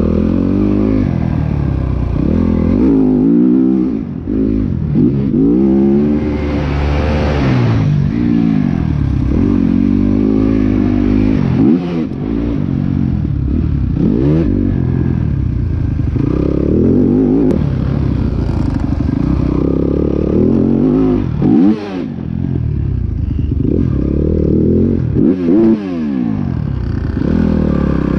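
Dirt bike engine revving up and down again and again as the rider works the throttle and shifts through the gears around a motocross track.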